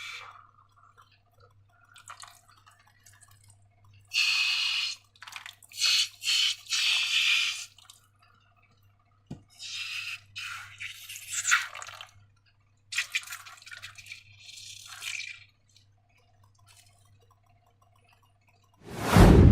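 Thick slime squelching and squishing in a run of short wet bursts as it is squeezed and worked, with one much louder, deeper burst near the end.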